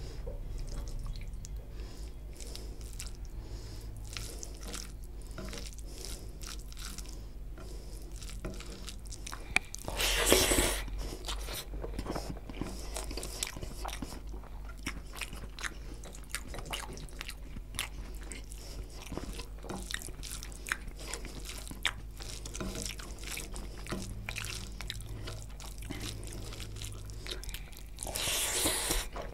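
Close-miked chewing and wet mouth sounds of a man eating rice and chicken curry by hand, a steady run of small smacking clicks. Twice, about ten seconds in and again near the end, a louder rush of noise as he takes in a mouthful.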